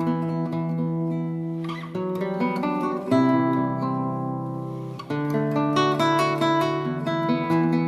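Background music: acoustic guitar strumming chords, the chord changing every second or two, with no singing.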